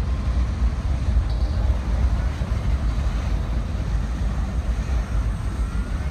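Freight train of boxcars rolling past at close range: a steady low rumble of steel wheels on rail, with a faint rising squeal near the end.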